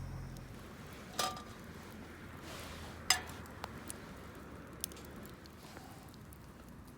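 Camp cookware clinking: two sharp ringing knocks about two seconds apart, then a few lighter ticks.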